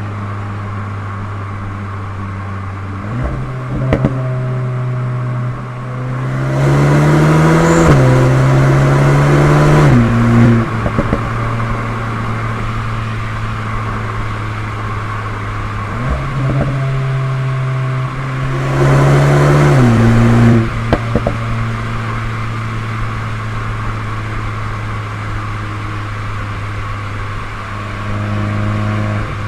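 VW Golf 8 GTI Clubsport Edition 45's turbocharged 2.0-litre four-cylinder through an Akrapovic exhaust, running with a steady drone. Twice it is revved up in steps and held for a few seconds before dropping back, with a few sharp cracks as the revs fall. There is a shorter rise near the end.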